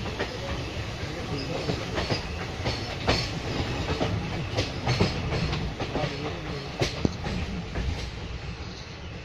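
Passenger train running along the track, heard from an open coach doorway: a steady rumble of the wheels with sharp clacks and knocks at irregular intervals from the rail joints.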